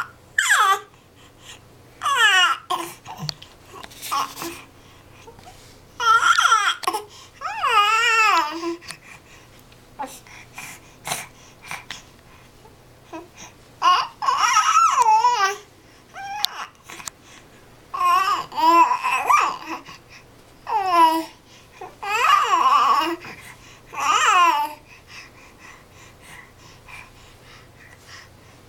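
A baby babbling and squealing in short high-pitched bursts with pauses in between, the pitch wavering up and down.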